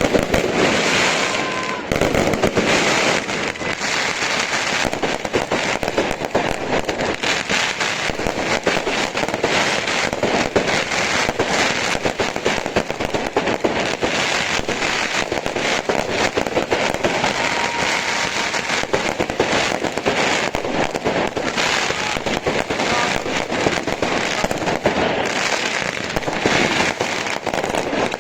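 Professional fireworks display firing without a break: rapid volleys of shots and shell bursts layered over dense crackling, with a brief lull about two seconds in.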